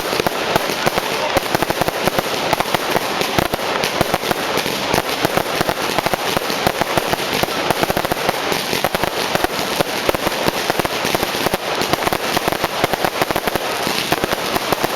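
Fireworks and firecrackers going off in a dense, continuous crackle of rapid bangs with no pause.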